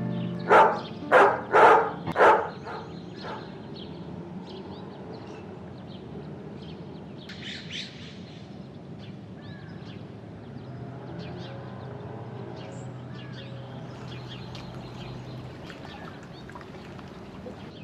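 Four loud, sharp sounds about half a second apart, then faint bird chirps and light ticks over a low steady hum.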